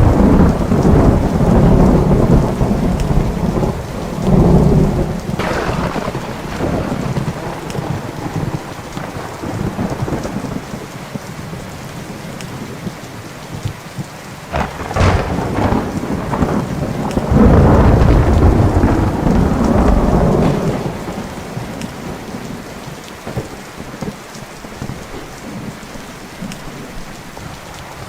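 Thunderstorm: steady rain with rolling peals of thunder, a sharp crack about halfway and a long, loud rumble a little after.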